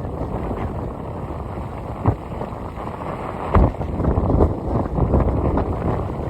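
Strong wind buffeting the microphone in a constant low rumble over heavy surf, with sharper gust jolts about two seconds in and again after three and a half seconds.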